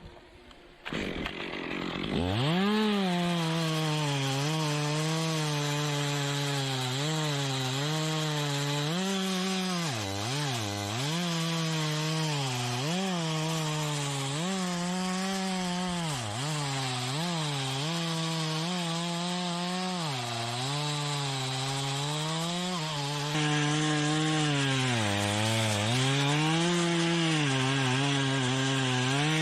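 Chainsaw starts up about two seconds in and runs at high revs while cutting wood. Its pitch dips again and again as the chain bogs down under load, then recovers.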